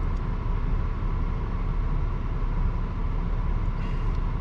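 A car running steadily at idle: a low, even rumble with a faint steady whine above it.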